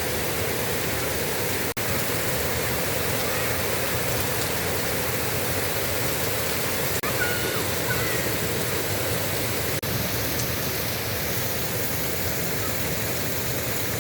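Heavy rain falling, a steady dense hiss, broken by three momentary gaps.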